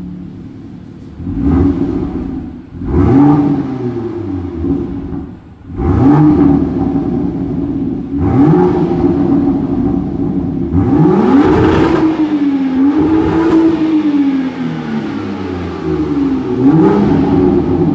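BMW M2's N55 turbocharged straight-six at idle, then revved repeatedly through the exhaust. Each blip climbs and falls in pitch, and one rev near the middle is held longer.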